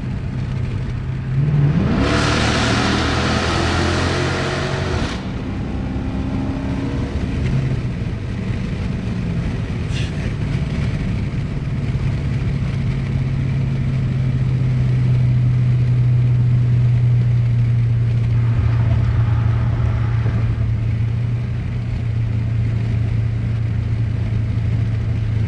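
2013 Dodge Charger R/T's 5.7-litre Hemi V8, with muffler and resonator deleted and a K&N drop-in filter, accelerating hard about two seconds in, its pitch rising for a few seconds. It then settles into a steady exhaust drone while cruising.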